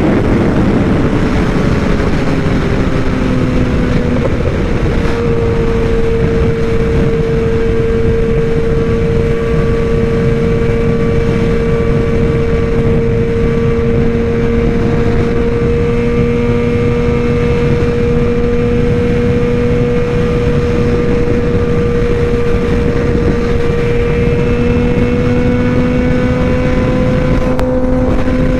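Suzuki GSX-R750 inline-four with aftermarket headers, mid-pipe and slip-on exhaust, ridden at a steady engine speed. Its pitch drops over the first few seconds as the rider eases off, then holds level, rising slightly near the end, over a steady rush of wind noise.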